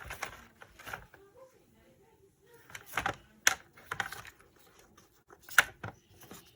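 Irregular clicks, taps and knocks of hard parts and tools being handled during disassembly of a circular saw, with a few sharper knocks about three and a half and five and a half seconds in.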